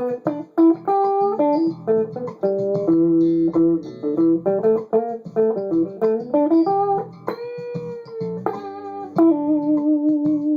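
Electric guitar lead on a Fender Duo-Sonic with Seymour Duncan P-Rails pickups in humbucker position (both pickups), played over a looped backing track. A run of single notes, a bent note about seven seconds in, then a long sustained note near the end.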